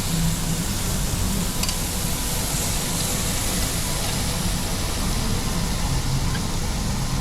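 Steady hiss and hum of a Korean barbecue restaurant: meat sizzling on the table grill, with ventilation running underneath.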